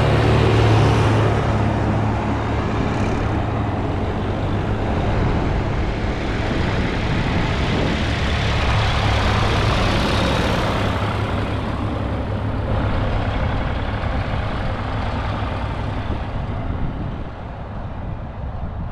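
Diesel tractor engines running along a road, a low steady engine hum over the rush of tyres and wind, loudest at the start and easing off in the second half.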